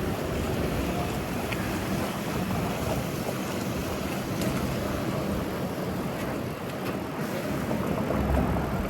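Steady rushing wind noise over the microphone, with the hum of street traffic, as from a bicycle ride on city streets.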